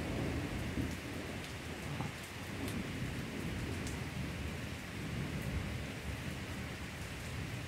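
Heavy rain pouring down as a steady hiss. A low rumble of thunder swells right at the start and rolls on for several seconds.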